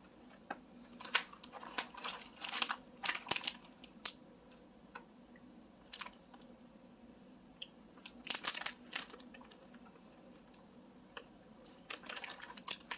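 Plastic candy packaging crinkling and rustling as it is handled, in several short bursts of crackly clicks with quiet gaps between.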